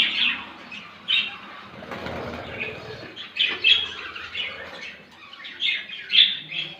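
A flock of budgerigars chirping in short repeated calls, with a flurry of wing flaps about two seconds in.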